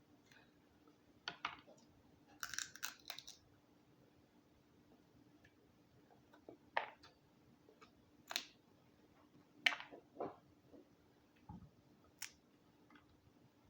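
Boiled Dungeness crab's shell being cracked and picked apart, with eating noises: scattered short cracks and clicks, and a quick run of them about two and a half seconds in.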